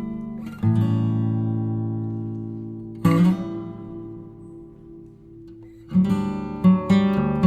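Background music: acoustic guitar strumming slow chords that ring out and fade, with quicker strums near the end.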